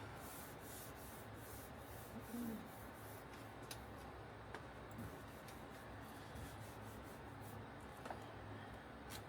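Faint rubbing strokes on a car body panel over a steady low hum, with a few light clicks.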